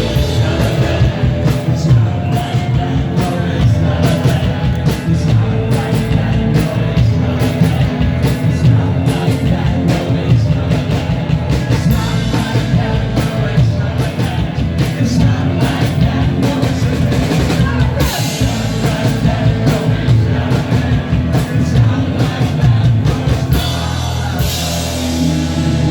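Live rock band playing loud with a singer and a drum kit keeping a steady beat.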